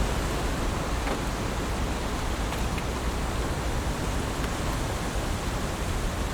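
Heavy rain falling steadily: an even hiss with a few separate drops ticking now and then.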